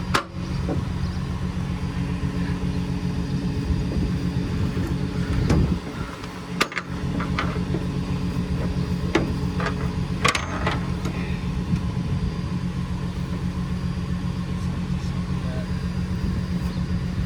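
Flatbed rollback tow truck's engine idling steadily, with a few sharp metallic clicks and clinks as tie-down straps and hooks are handled.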